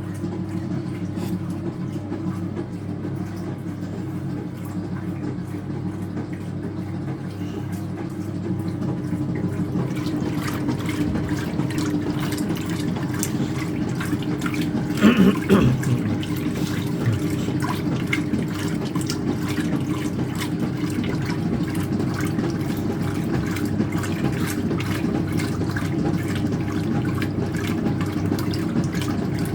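Speed Queen top-loading washer agitating a load of towels: a steady motor hum with water sloshing, the sloshing growing louder about a third of the way in. A short, louder sound comes about halfway through.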